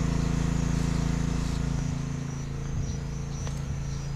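A motor engine running steadily with a low hum that drops off about two seconds in. Insects buzz faintly in the background.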